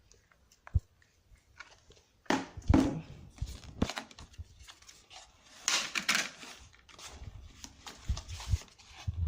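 Packaging being handled during a phone unboxing: plastic wrapping and cardboard rustling and crinkling in irregular bursts, after a single sharp click a little under a second in.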